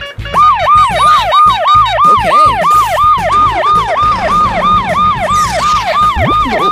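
Fast electronic emergency siren in yelp mode, about three quick rising-and-falling wails a second, starting abruptly, loud over a background music beat.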